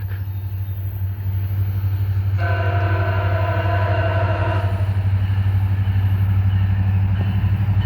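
MARC 21, an MPI MP36PH-3C diesel-electric locomotive with a 16-cylinder EMD 645 prime mover, hauling its commuter train with a steady low rumble. Its multi-chime air horn sounds once, about two seconds in, for a little over two seconds.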